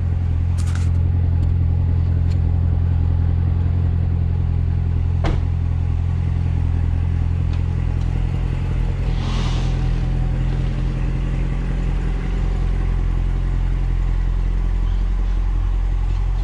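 C7 Corvette's V8 engine idling steadily with a deep low drone. A single sharp click comes about five seconds in.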